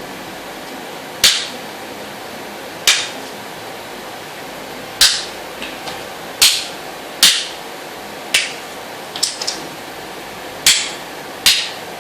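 Makhos (Thai checkers) pieces being moved on the board, giving about eight sharp clacks at irregular intervals of one to two seconds, with a few softer ticks in between.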